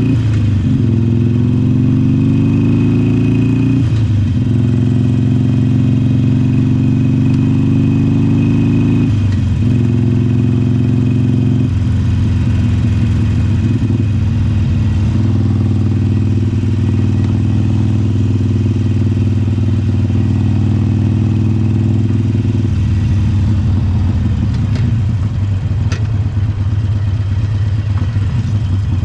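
Harley-Davidson Iron 883's air-cooled 883 cc V-twin running under way. It rises in pitch as it accelerates, with several gear changes in the first dozen seconds, then holds a steady cruise and drops lower about three quarters of the way through as it eases off.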